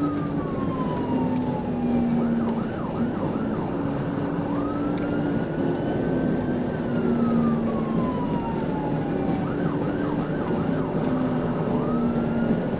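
Police car siren running through a pursuit, a slow rising and falling wail broken twice by a quick burst of yelps. Underneath are steady road and engine noise and a lower tone that alternates between two pitches.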